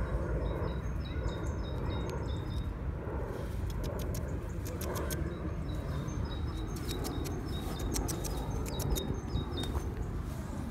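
Small birds chirping in short, high repeated notes in the background, over a steady low rumble on the microphone. A run of sharp clicks in the middle.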